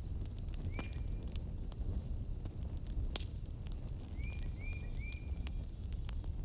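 Wood fire crackling, with sharp pops scattered through it over a low rumble. A steady high-pitched hum runs underneath, and short high chirps sound once about a second in and three times in quick succession near the end.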